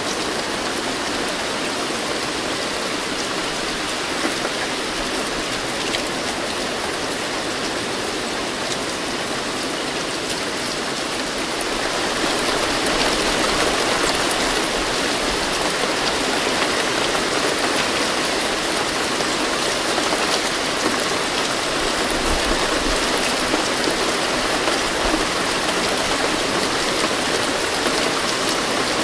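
Steady rain falling, an even hiss of drops that grows heavier and louder about twelve seconds in.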